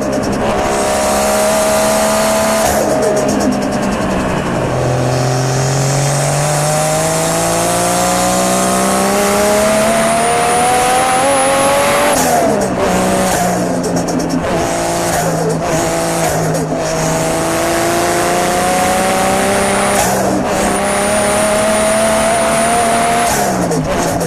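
Turbocharged car engine accelerating hard, its pitch climbing over several seconds with a high turbo whistle rising above it, then cutting off on lift-off with a rapid chattering release of boost; this happens twice.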